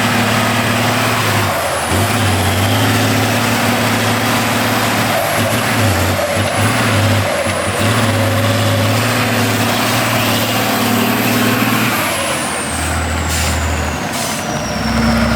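Heavy off-road truck's diesel engine working hard, its low drone changing as the throttle comes on and off. Near the end a high whine falls in pitch and a few short hisses break through.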